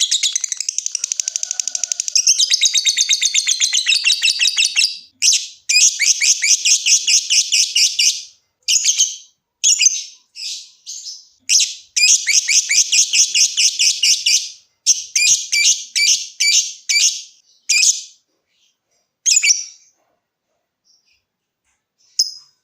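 Lovebird chattering in its long, fast, high-pitched trill (ngekek). The first few seconds are one unbroken run of rapid chirps; after that it comes in bursts of a couple of seconds with short breaks, and it stops for about two seconds near the end.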